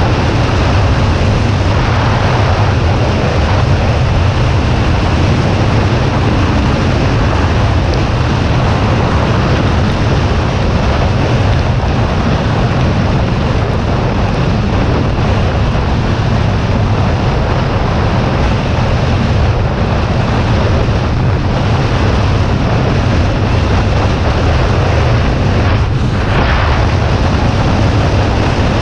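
Kawasaki Ninja 400 parallel-twin motorcycle riding at a steady speed, its engine drone mixed with heavy, unbroken wind rush over the rider's microphone.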